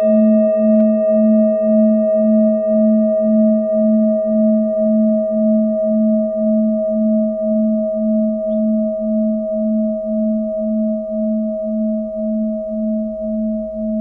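Singing bowl ringing after a strike, its low tone pulsing in a steady wobble about twice a second while it slowly fades.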